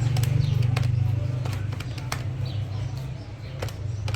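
A motor vehicle's engine running with a steady low drone that fades about three seconds in, with scattered sharp clicks over it.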